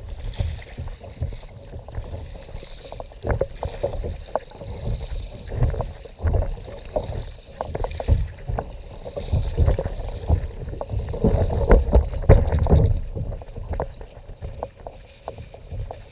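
Kayak on the water: water sloshing against the hull, with irregular knocks and clicks that come thickest about two-thirds of the way through.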